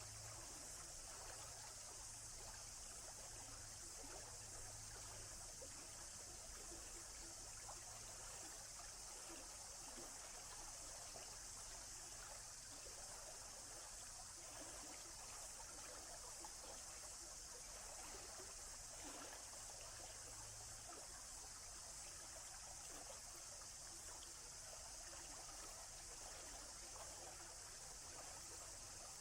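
Faint, steady flowing water: a stream trickling.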